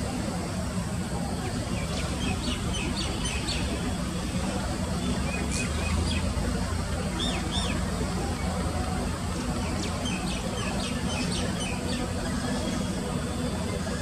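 Short, high bird calls in three small clusters, about two, six and eleven seconds in, over a steady low rumble of distant traffic.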